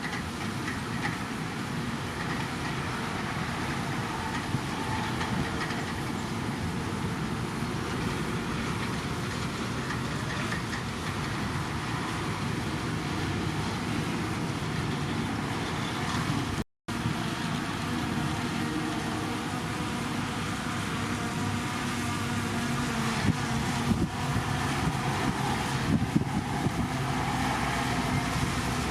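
Heavy diesel earthmoving machinery running steadily under work, with a few clanks near the end. The sound drops out for an instant about two-thirds of the way through.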